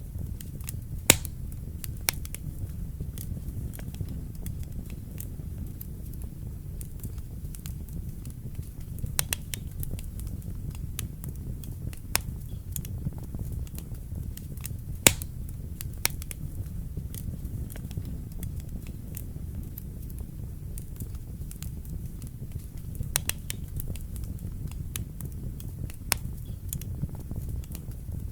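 Wood fire burning in a fireplace: a steady low rumble of the flames with irregular sharp crackles and pops of the burning logs, two louder snaps about a second in and about halfway through.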